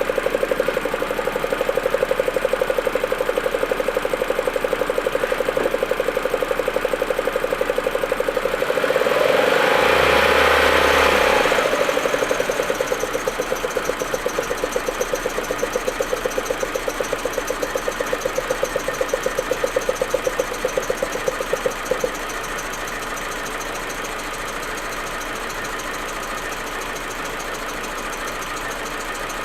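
Audi A4 1.8T turbocharged four-cylinder engine idling roughly with an uneven, stuttering beat, typical of the misfire the owner reports only when the engine is cold. About ten seconds in, a louder rushing noise swells for a few seconds. About two-thirds of the way through, the engine beat stops and only a steady hum remains.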